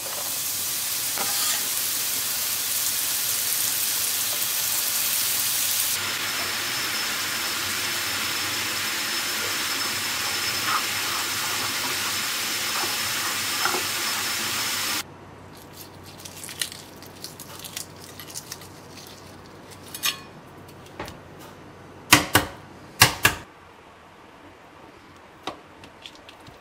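Chopped champignon mushrooms sizzling loudly in hot olive oil in a frying pan as they are stirred. About halfway the sizzle cuts off suddenly and gives way to light taps and clicks, with a few sharper knocks, as peeled hard-boiled eggs are handled and cut with a knife on a hard surface.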